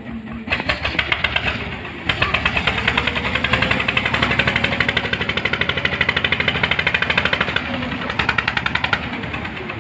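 Diesel engine revving up hard with a rapid clattering beat, then easing back. It comes in about half a second in, gets louder about two seconds in, and drops in pitch near the end.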